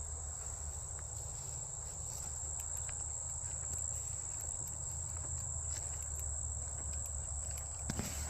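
Steady chorus of crickets trilling in one high, unbroken pitch, over a low rumble.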